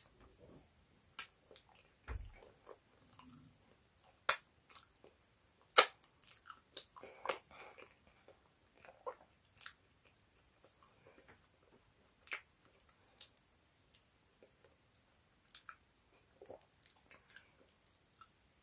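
Close-up mouth sounds of a person eating yam in tomato sauce by hand: irregular chewing and lip smacks, the two loudest about four and six seconds in, over a faint steady high hiss.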